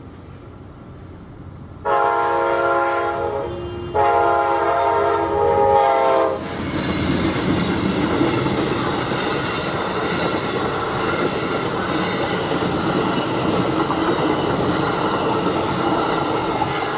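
Amtrak passenger train led by GE P42DC diesel locomotives sounding two long horn blasts, the second right after the first, then rumbling past with wheels clattering over the rail joints.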